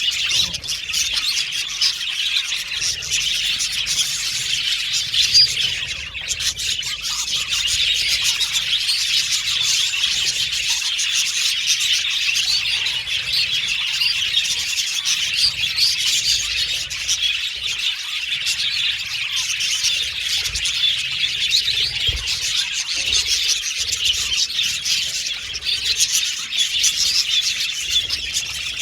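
A flock of budgerigars chirping and chattering continuously, many short overlapping calls at once.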